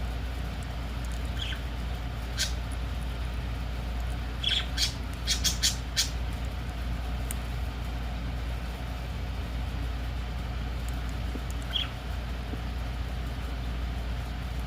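Pineapple green-cheeked conure giving a few short, sharp chirps, with a quick run of them about four to six seconds in. A steady low hum runs underneath.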